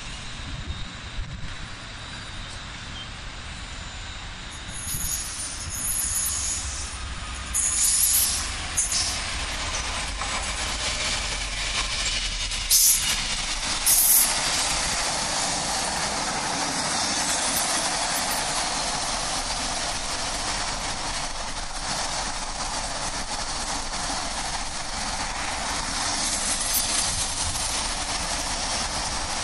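Intermodal container freight train passing at speed. The noise builds as it comes in, with a few short, sharp loud noises near the middle. Then the container wagons' wheels keep up a steady rolling noise on the rails.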